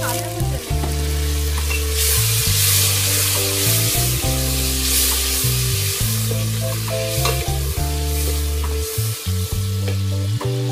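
Onions and tomato pieces sizzling in oil in a steel pressure cooker, stirred with a wooden spoon; the sizzle grows louder about two seconds in. Background music with long held notes plays underneath.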